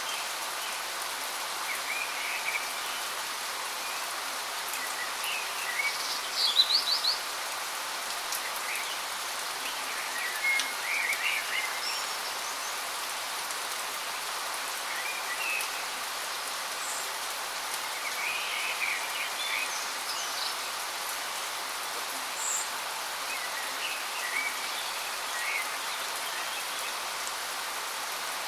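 Waterfall water rushing in a steady hiss, with birds chirping on and off over it; the loudest is a quick run of four or five chirps about a quarter of the way in.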